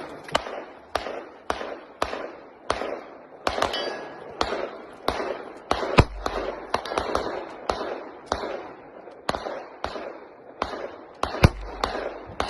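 Gunfire from several shooters firing on a range, about two shots a second at uneven spacing, each shot ringing briefly. A few shots are louder, one about six seconds in and another near the end.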